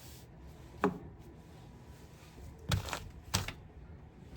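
Three short knocks or taps: one about a second in, then two about half a second apart near the end.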